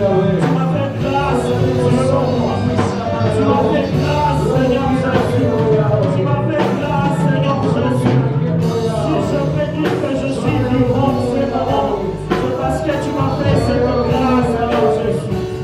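Live worship band music with singing, drums hitting throughout.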